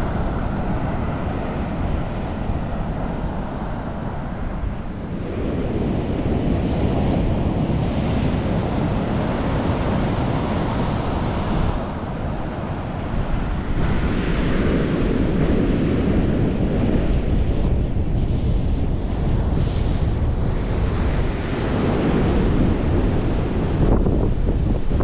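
Atlantic surf breaking on a beach, a continuous wash of waves that surges louder and eases off several times, with wind buffeting the microphone.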